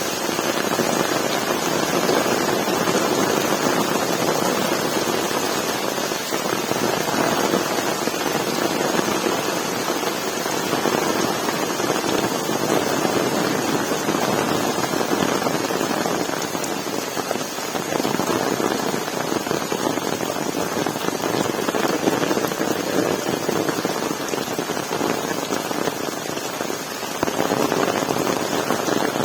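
Heavy rain falling, a dense, steady patter of drops that eases a little past the middle and grows heavier again near the end.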